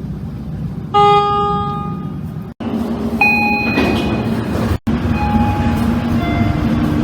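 Elevator chimes from several different lifts in quick succession, each a single bell-like tone that rings for about a second, over the steady hum of the lift car.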